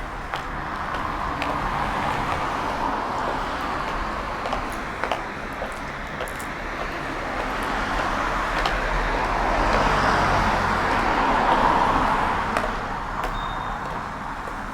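Road traffic passing along a street: a steady hiss of tyres and engines that swells as vehicles go by, loudest about ten to twelve seconds in, with small scattered clicks.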